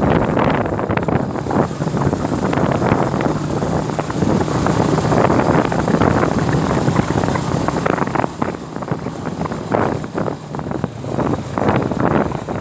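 Motorbike engine running steadily while riding, with heavy wind buffeting the microphone.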